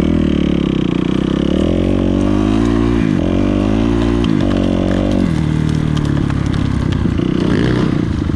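Dirt bike engine being ridden hard. Its pitch climbs and drops sharply twice, like shifting up or rolling off the throttle, then settles at a lower steady note.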